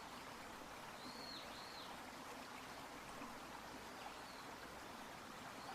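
Faint, steady flow of a small shallow river, with a few high bird chirps: two together about a second in, fainter ones later.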